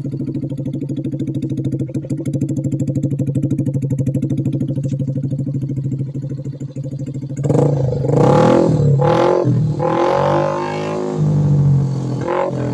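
Yamaha Aerox scooter's single-cylinder engine breathing through an aftermarket double-outlet 51 mm canister muffler: it idles steadily, then from about seven seconds in the throttle is blipped in a series of revs that rise and fall.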